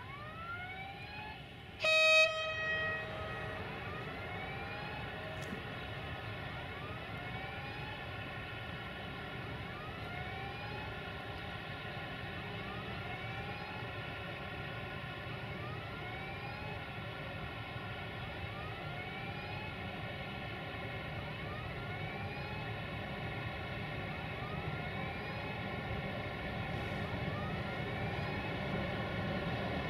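A train horn sounds one short single-note blast about two seconds in, the loudest sound here. Under it runs a steady low train rumble that slowly grows louder, and a rising whine repeats about every two seconds throughout.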